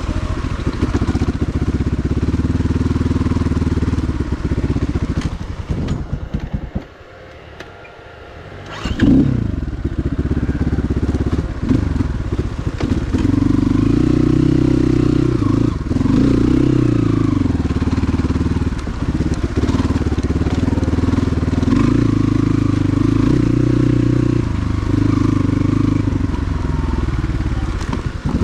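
Motorcycle engine running with revs rising and falling. It drops away about six and a half seconds in, then picks up again with a sharp rev near nine seconds and runs on with varying revs.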